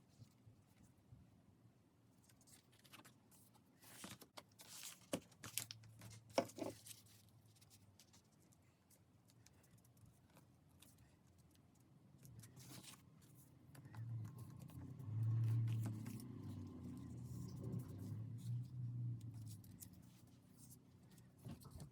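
Paper being handled and cut with scissors: scattered snips and crinkles, followed by a low, uneven hum that is the loudest part.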